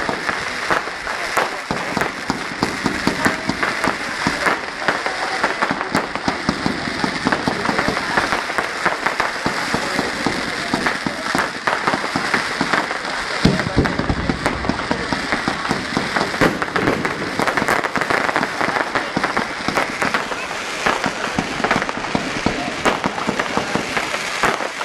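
Fireworks going off in a dense, unbroken run of bangs and crackling, with a deeper boom about halfway through.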